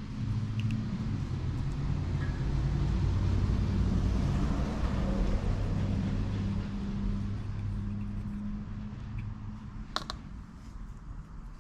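A motor vehicle's engine running by, a low hum that grows louder and then fades away, followed by a single sharp click near the end.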